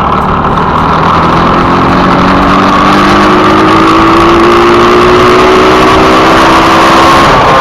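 Motorcycle's TMX-type single-cylinder pushrod engine, big-bored to 63 mm with a ported and polished head, running hard at high revs, its pitch climbing slowly for several seconds. The high revs are what the owner credits to the port and polish.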